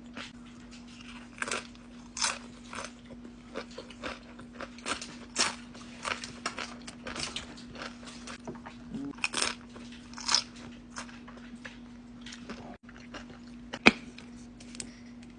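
Close-up chewing and biting of crunchy food in irregular crackly bites, over a steady low hum. One sharp click stands out near the end.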